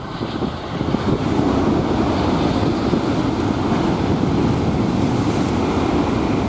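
Hankyu limited express electric train passing close by at speed: a steady, loud rush of wheels on rail and moving air that builds up in the first second or so and then holds.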